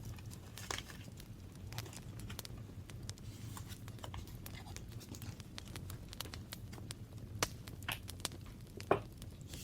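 Paper being handled for a scrapbook-style journal: scattered crinkles, rustles and small clicks, with a sharper click a little before the end.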